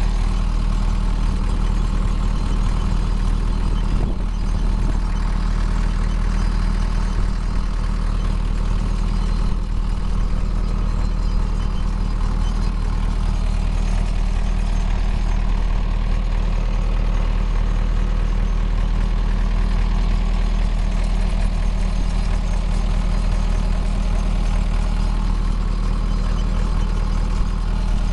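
Tractor engine running steadily at a constant speed, a low, even hum with no change in pitch or load.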